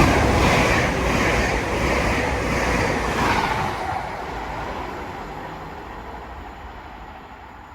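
Class 800 train passing through the station at speed: a loud rush of wheel and air noise, loudest at the start and fading away steadily as it recedes.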